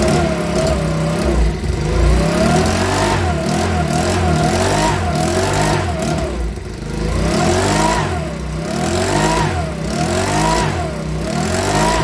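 Makita BHX2500 leaf blower's small four-stroke engine being revved up and down over and over, the pitch rising and falling about once a second: the former non-runner now running after repair.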